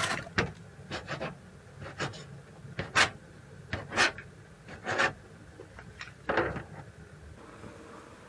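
Short rubbing and scraping noises, about one a second, stopping a little past the middle.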